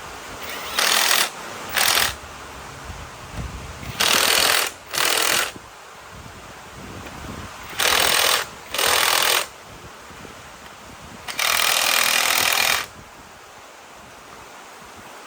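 Seven short bursts of loud hissing, each starting and stopping sharply, mostly in pairs, with the last and longest lasting about a second and a half: a pressurised jet switched on and off.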